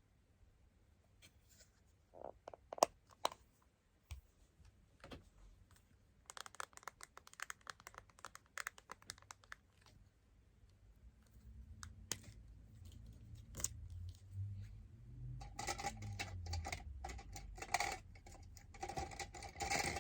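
Close-miked ASMR handling sounds of decorating a smartphone: a few sharp clicks, then a dense run of crackly tapping and scratching, with louder scratching and clicking near the end over a low background rumble.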